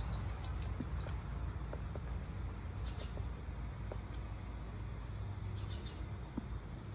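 Birds chirping: a quick run of short high chirps in the first second, then single chirps here and there, some with a short falling tail, over a steady low outdoor rumble.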